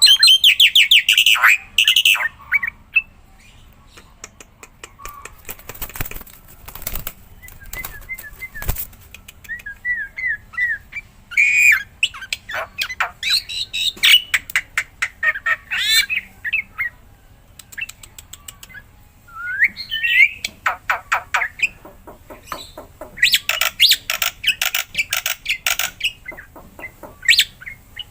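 Black-winged myna (jalak putih) singing hard: bouts of whistled and warbled phrases mixed with rapid runs of dry clicks and chatter, broken by short pauses.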